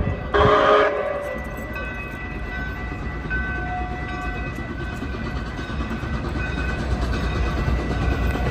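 Canadian Pacific steam locomotive 2816's whistle sounding a short blast that ends about a second in, followed by the steady rumble of the train running, slowly getting louder.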